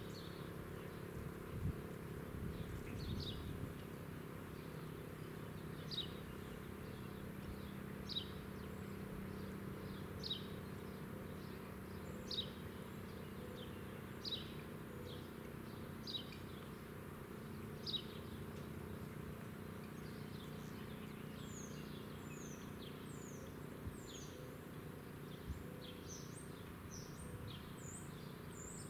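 Birds calling outdoors: a short falling chirp about every two seconds, then a quicker run of higher chirps near the end. A steady low hum runs underneath.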